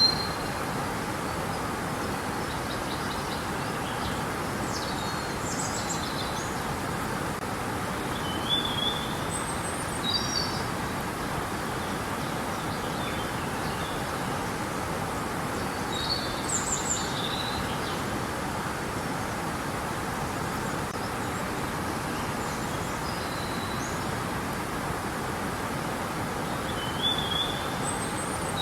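River water flowing steadily, with short bird chirps and calls over it every few seconds.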